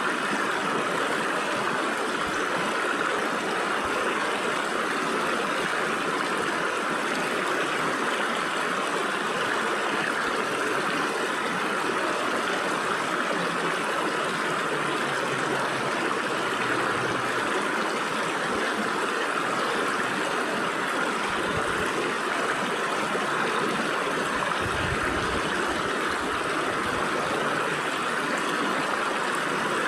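Stream water flowing and splashing between rocks, a steady rushing with no breaks.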